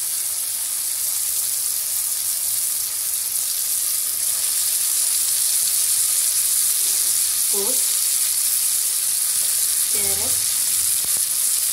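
Onion and tomato masala sizzling steadily in hot oil in a frying pan while shredded cabbage and chopped carrots are added; the sizzle grows a little louder about four seconds in.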